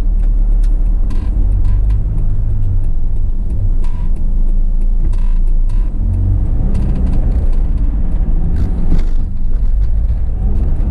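Mercedes-Benz Sprinter 314 CDI's four-cylinder turbodiesel pulling away and accelerating, a steady low rumble whose pitch rises about seven seconds in, with scattered light clicks and rattles.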